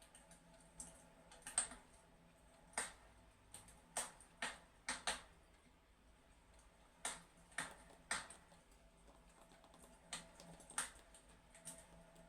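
Wood fire crackling in a fireplace: sharp, irregular pops and snaps at uneven intervals over a faint steady background.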